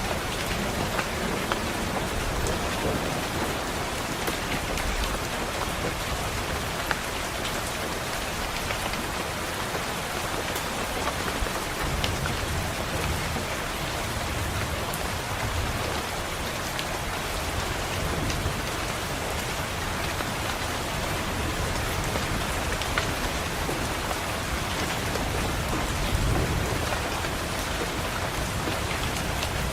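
Steady heavy rain pattering on a window, with scattered sharp drop ticks. Low rumbles of distant thunder swell up a few times, around the middle and near the end.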